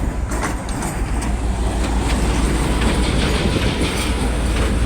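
A train passing close by: a steady loud rumble with the clatter of wheels over rail joints.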